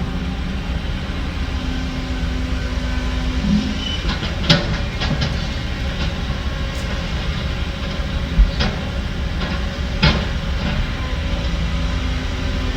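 Heavy diesel construction machinery running steadily with a deep rumble, with a few sharp metallic clanks of steel parts striking about a third of the way in, past the middle and near the end.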